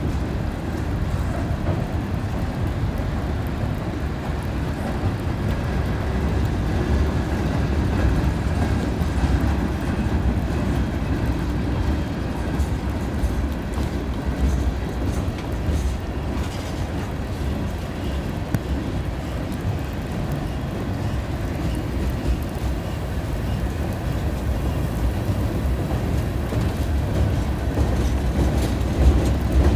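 Open-top hopper cars of a freight train rolling steadily across a steel deck trestle overhead: a continuous low rumble of wheels on the bridge.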